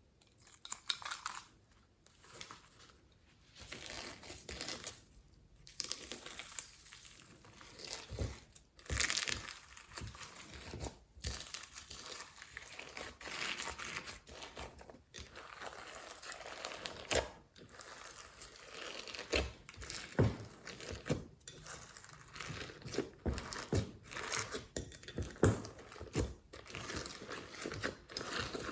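Slime being squished, stretched and kneaded by hand, giving irregular crackling and squelching pops.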